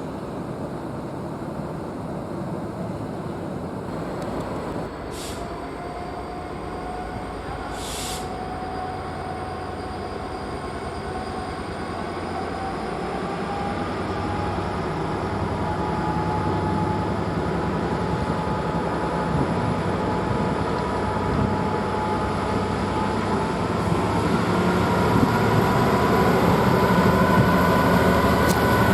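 Train approaching, growing steadily louder, with a whine that rises slowly in pitch as it picks up speed.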